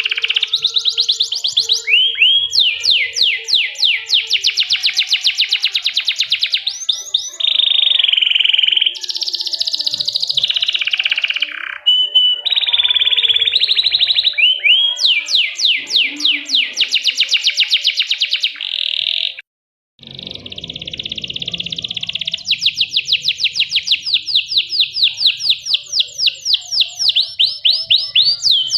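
Domestic canary singing long, rapid trills of repeated high notes, one roll running into the next. There is a brief silent gap about two-thirds through, then the trilling resumes.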